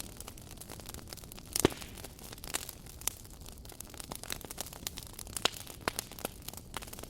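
Wood fire burning, its logs crackling with irregular sharp pops over a low steady hiss; the loudest pop comes a little over one and a half seconds in.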